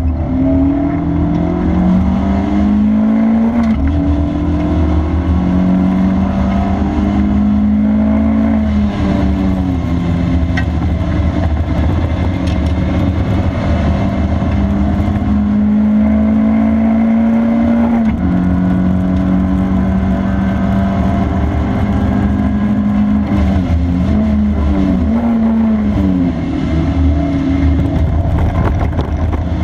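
Car engine being driven hard on a race circuit. Its pitch climbs steadily for several seconds at a time, then drops sharply at gear changes and braking, over constant road and wind rumble.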